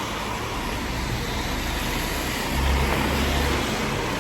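Road traffic going by, with a steady hiss; a heavier vehicle's low engine rumble swells about two and a half seconds in and fades a second later.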